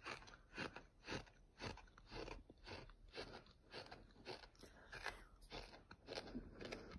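A person chewing a mouthful of fine beach sand: gritty crunches between the teeth, about two a second, in an even rhythm.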